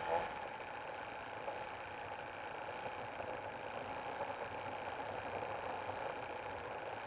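Nitro glow engine of an 84-inch Spacewalker RC plane running steadily at a low, idle-like throttle.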